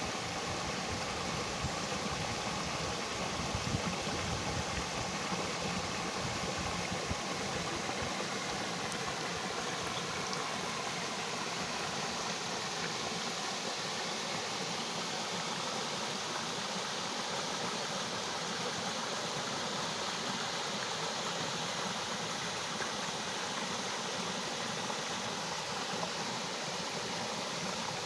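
Steady rushing of a waterfall, an even roar of falling water, with some low rumbling in the first few seconds that dies away.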